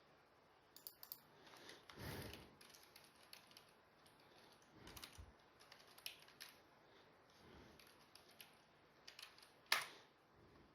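Faint, irregular keyboard typing: scattered clicks and taps, with one sharper click shortly before the end.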